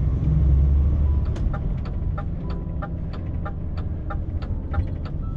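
Truck engine running low and steady, heard inside the cab, with the turn-signal indicator ticking about three to four times a second.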